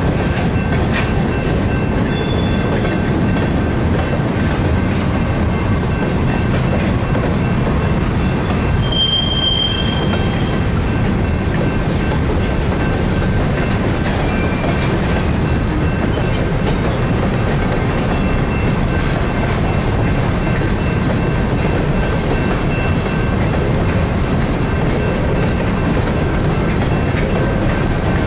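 Freight cars, covered hoppers and then open-top hoppers, rolling past close by with a steady rumble and clatter of wheels on the rails. About nine seconds in there is a short, high wheel squeal lasting about a second.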